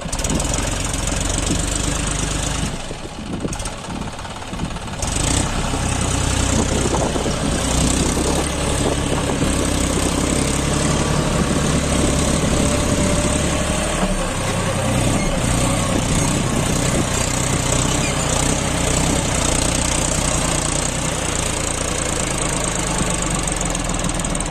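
John Deere 5105 tractor's three-cylinder diesel engine running under load, hauling a fully loaded trolley. It drops back for a couple of seconds about three seconds in, then runs louder and steady.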